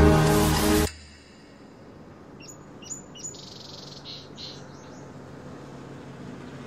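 Background music cuts off about a second in, leaving a low steady hum. In the middle comes a short run of high bird chirps.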